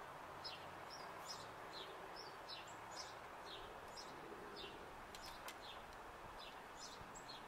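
Small birds singing: a quick series of short, high chirps, two or three a second, over a faint steady background hiss.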